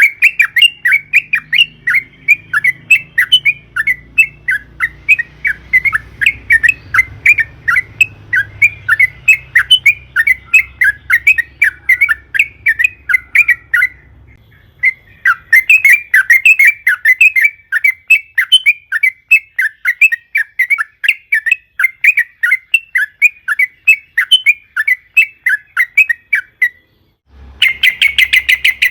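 Yellow-vented bulbul (trucukan) calling in long, fast runs of short chattering notes, the long 'ropel' song. It breaks off briefly about halfway, stops near the end, then gives a short, denser burst.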